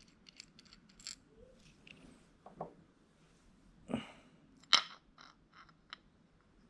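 Scattered light clicks and knocks of small engine parts being handled during ATV engine teardown, with a sharper click about two-thirds of the way through.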